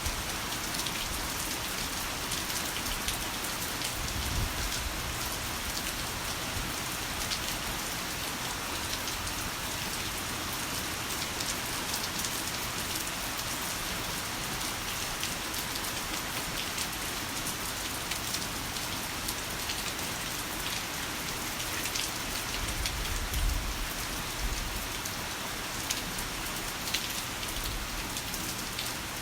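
Heavy rain falling steadily, a dense hiss of raindrops with fine pattering ticks. Two brief low rumbles swell beneath it, about four seconds in and again about two-thirds of the way through.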